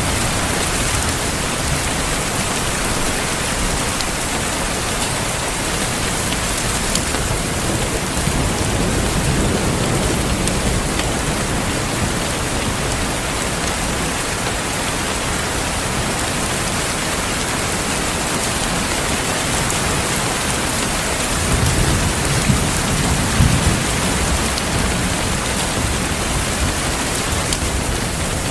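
Steady heavy rain falling, with low rolls of thunder rumbling about a third of the way in and again for a few seconds near the end.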